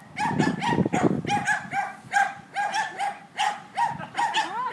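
A small dog yapping over and over, about three high barks a second. There is a burst of low rumbling noise during the first second or so.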